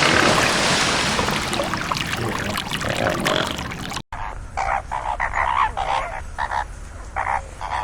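A steady rushing noise, cut off suddenly about four seconds in, then a run of short, repeated animal calls, a dozen or so in quick succession.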